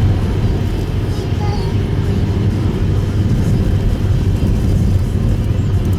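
Steady road and engine noise heard inside a Subaru Impreza Sport (GP7) driving on a snow-covered road: a continuous low rumble from the tyres and drivetrain.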